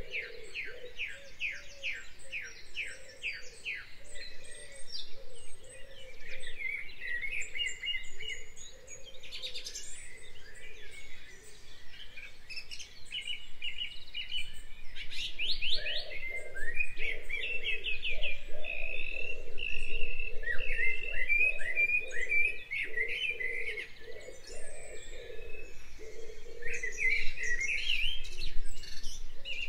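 Several birds singing in a continuous chorus, with fast-repeated chirps and rattling trills overlapping one another.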